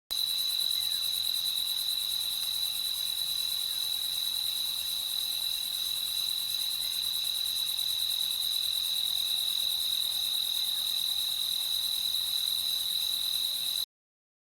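Crickets trilling in a steady, unbroken high-pitched chorus, which cuts off suddenly near the end.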